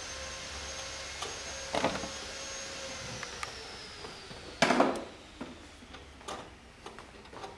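Mazda 6 2.0 engine running, with a steady whine that starts dropping in pitch about three seconds in. Two louder knocks stand out, the louder near the middle, followed by a run of light irregular clicks, the ticking of the evaporative purge valve.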